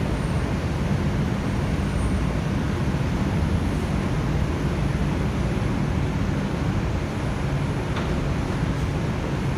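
Inside an R142 subway car: a steady low rumble of the train running on the rails, with no change in level.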